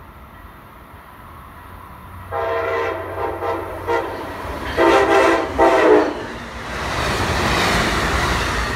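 Amtrak electric passenger train sounding its horn in several blasts as it approaches, the first group a couple of seconds in and a louder pair near the middle. Then comes the rushing noise of the train passing close by at speed.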